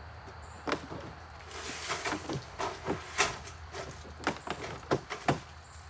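Sheets of tin roofing being handled and set down: a run of irregular sharp knocks and clanks, with a short scraping slide about two seconds in.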